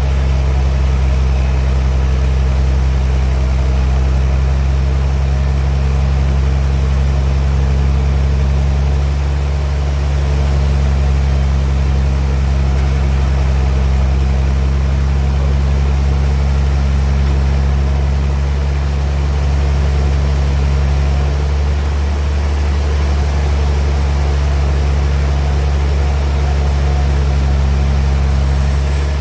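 Band sawmill machinery running with a steady deep hum of several even tones, dipping slightly twice.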